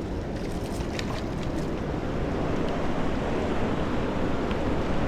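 Steady rushing of river water, with wind on the microphone, growing slightly louder about two seconds in; a few faint ticks in the first second or so.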